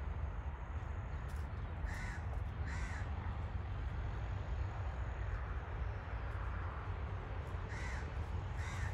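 Short, harsh bird calls in two pairs, about two seconds in and again near the end, over a steady low rumble.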